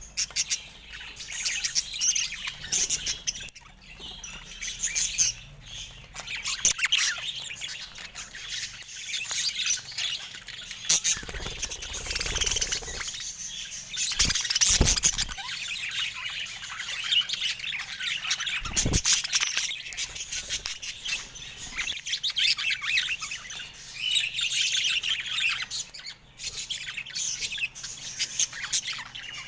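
Pet budgerigars chattering continuously with squawks and chirps, with a few low thumps around the middle.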